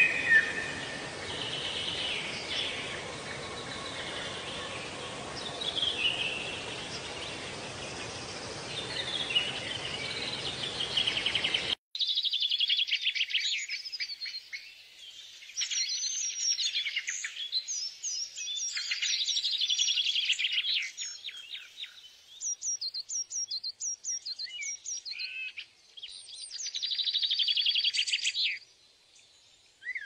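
Songbirds singing and calling with high chirps and rapid trills. About 12 s in, a background hiss cuts off abruptly and the birdsong carries on clean.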